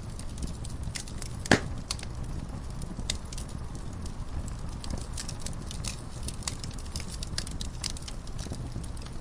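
Wood fire crackling in a fireplace: a steady low rumble of the burning logs with scattered small snaps, and one loud pop about a second and a half in.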